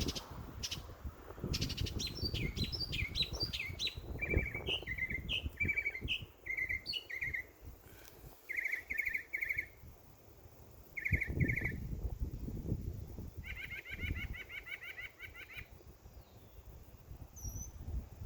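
Backyard songbirds chirping and singing: a quick run of falling chirps early on, then short repeated chirping phrases, and a fast trill a little past the middle, with a few high whistles near the end. Uneven low rumbling noise sits under the birdsong.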